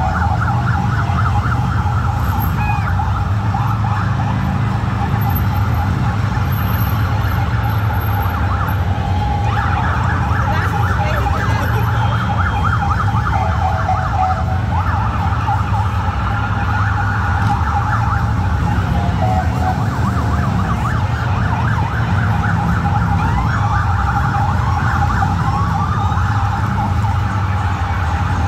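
Police motorcycle sirens sounding without a break, a fast warbling wail, over the steady low rumble of motorcycle engines.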